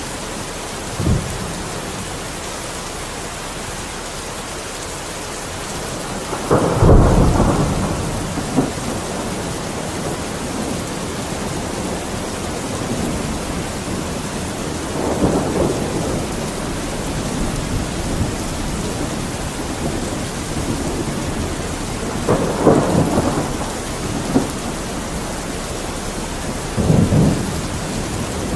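Steady rain falling, with thunder rumbling several times. The loudest roll comes about seven seconds in, and shorter rumbles follow near the middle, past twenty seconds and near the end.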